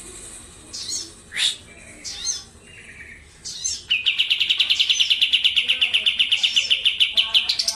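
Sooty-headed bulbul (kapas tembak) singing: scattered short chirps and whistling notes, then about four seconds in a loud, fast trill of about ten even notes a second that keeps going.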